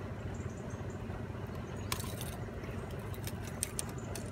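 Steady low hum, with a sharp click about two seconds in and a few light ticks near the end, as metal forceps work a jerkbait's treble hooks out of a pike's mouth.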